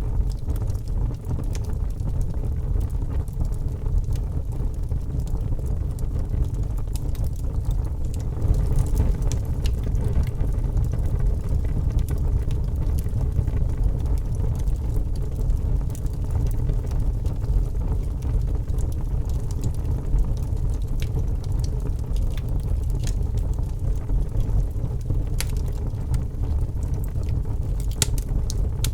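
Wood fire burning in a fireplace: a steady low rumble of flames with scattered sharp crackles and pops, several of them close together near the end.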